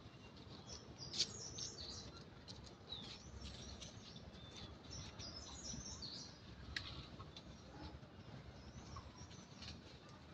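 Faint chirping of small birds, many short high calls scattered throughout, with a sharp click about a second in and another a little past the middle.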